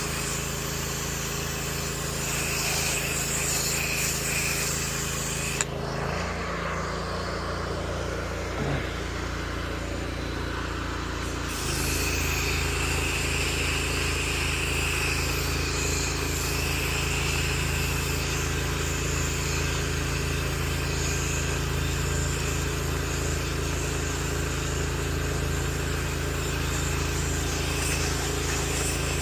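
Gas-engine pressure washer running steadily with the hiss of the spray; about six seconds in the spray stops and the engine note changes, and it starts again about six seconds later.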